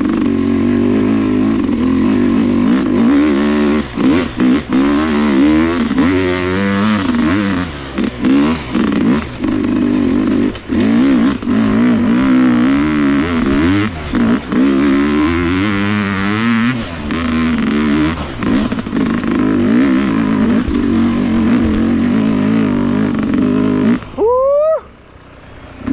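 Sherco dirt bike engine running and being revved again and again, its pitch rising and falling with the throttle. Near the end it drops away briefly, then a quick rising whine follows.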